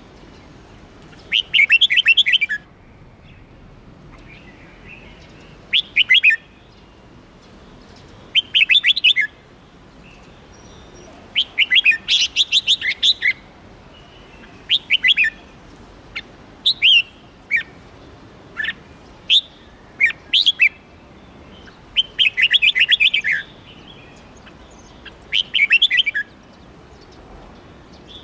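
Red-whiskered bulbul singing: short, quick, bright phrases repeated every couple of seconds.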